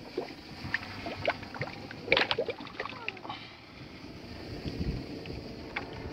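Old Mercury 20 hp Thunderbolt outboard's propeller being turned by hand, its drive making a strange, irregular run of clicks and knocks, loudest in a cluster about two seconds in.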